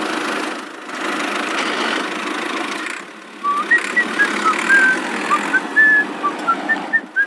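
Steady engine-like running noise, with two brief dips. From about halfway, a string of short, high whistled chirps at varying pitch sounds over it.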